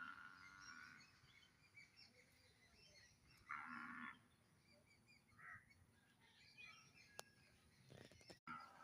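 Birds calling: scattered small high chirps, with two louder calls, one fading out about a second in and another about three and a half seconds in.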